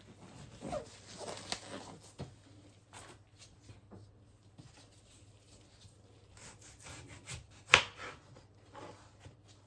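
Household handling noises: irregular rubbing and rustling with light knocks and clicks, and one sharper click about eight seconds in.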